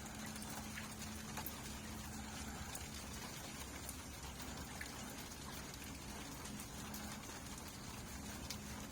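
Steady rain falling: an even hiss with scattered individual drops ticking, and a faint low hum underneath.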